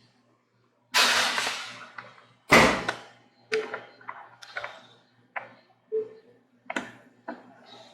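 Kitchen clatter of cookware being handled at the stove: a short burst of hiss about a second in, then a heavy clunk, followed by a run of lighter knocks and clicks, over a faint steady low hum.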